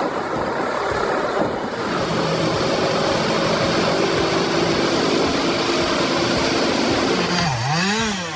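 A heavy machine's engine running steadily amid dense mechanical noise. Near the end its pitch dips and rises again briefly.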